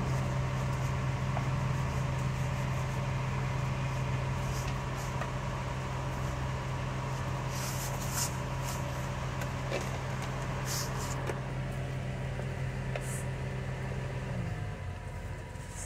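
A motor running with a steady low hum, which winds down and stops about a second before the end. A few light clicks and taps sound over it.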